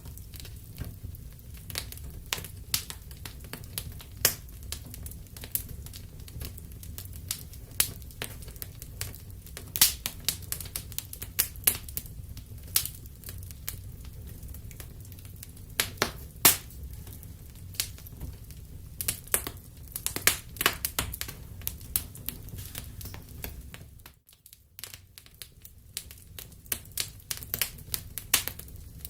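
Wood fire in a fireplace crackling, with irregular sharp pops and snaps over a steady low rumble of burning. The sound drops away briefly about two-thirds of the way through, then the crackling resumes.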